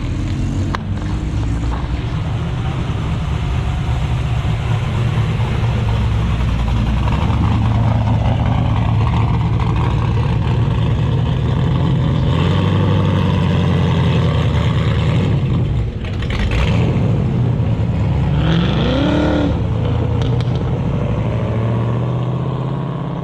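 Car engines running at low revs as cars drive slowly past: a steady, loud low rumble with small rises and falls in revs, dipping briefly about 16 seconds in.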